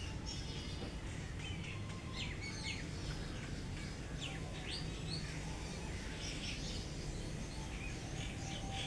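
Small birds chirping: short, sharp high notes, several in quick succession, over a steady low background hum.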